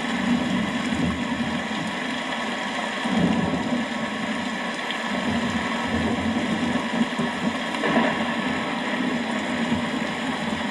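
Steady rain, with low rumbles of distant thunder swelling about three seconds in and again later.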